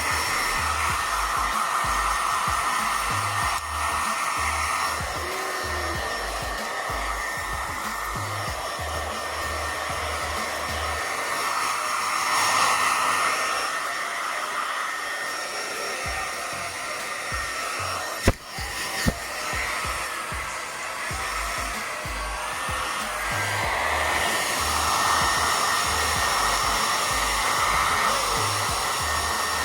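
Hair dryer blowing steadily, drying a wet macaw's feathers, with a thin steady whine over the rush of air and gusts from the air stream hitting the microphone. Two sharp knocks come about eighteen seconds in.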